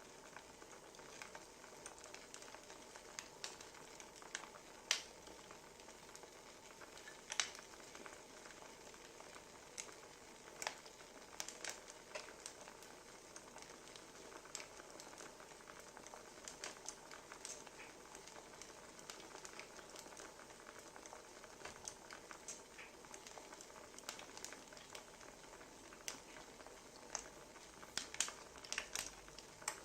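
Wood fire crackling: a steady soft hiss broken by irregular sharp pops and snaps.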